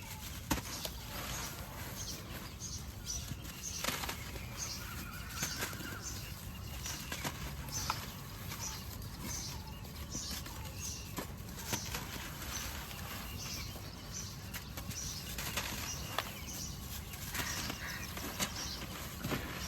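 Cement shapes crumbling in water: a steady run of small crackles and crumbling noises, with a few sharper cracks scattered through.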